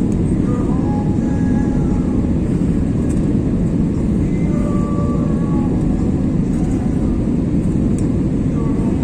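Steady low engine and airflow noise of an Airbus A320 heard from inside the cabin during the landing approach.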